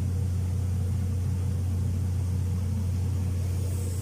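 A machine running steadily at constant speed: an even, low engine drone with no change in pitch.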